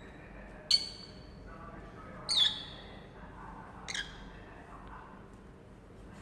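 Lovebirds giving three short, shrill squawks, about a second and a half apart, the last one fainter.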